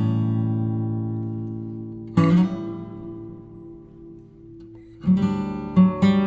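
Background music on acoustic guitar: strummed chords that ring out and fade, struck again about two seconds in, then quicker strumming near the end.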